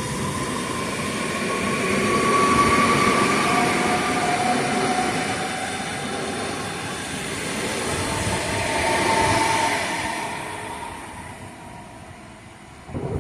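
A train running past at the station, with a steady rumble and drawn-out, slightly gliding metallic whines. It swells twice and fades away near the end.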